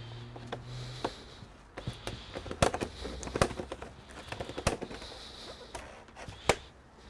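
Irregular sharp clicks and knocks of hands and tools working on a computer's plastic and metal parts. The loudest come in a cluster about two and a half to three and a half seconds in, with another near the end.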